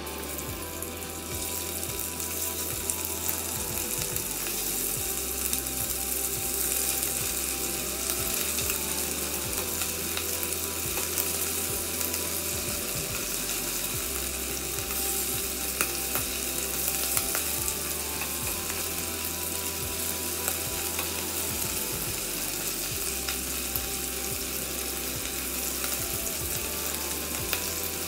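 Cubes of marinated beef frying in oil and butter in a pot: a steady sizzle with small crackles and pops.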